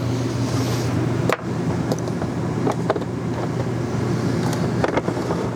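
Steady mechanical hum of an air conditioner running, with a few sharp clicks and knocks as a flat-screen TV is fitted onto its wall-mount bracket. The loudest click comes about a second in, and lighter ones follow later.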